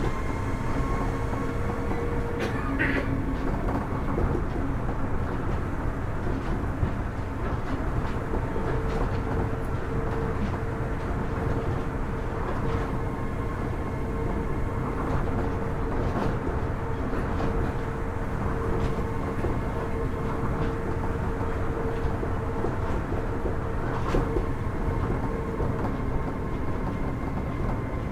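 Kitakyushu Monorail Series 1000 car running at speed, heard from inside: a steady low rumble of the rubber-tyred running gear on the guideway, with the steady whine of its Hitachi IGBT-VVVF inverter and traction motors and a few light knocks.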